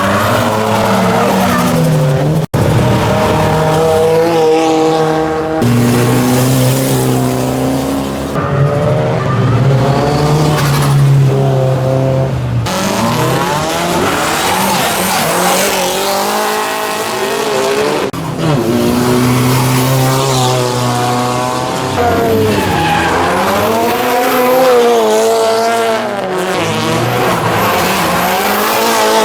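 Nissan SR20 2.0-litre inline-four engines revving hard, one car after another, with tyres squealing. The pitch climbs and drops with the throttle, and the sound changes abruptly every few seconds as each new car takes over.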